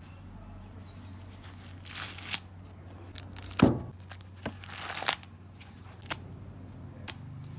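Rustling and scattered clicks from something being handled, with one loud thump about three and a half seconds in, over a low steady hum.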